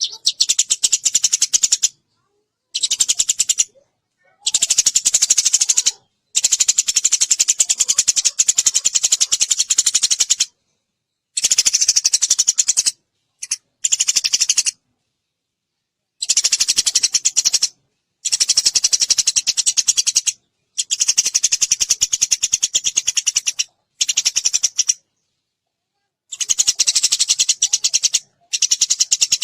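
Eurasian tree sparrow chirping in fast, continuous runs of chirps, in phrases of one to four seconds broken by short gaps of dead silence, as in an edited, looped song recording.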